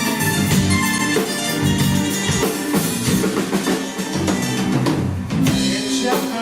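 Live band playing an instrumental passage with drum kit and guitar, just before the vocals come in.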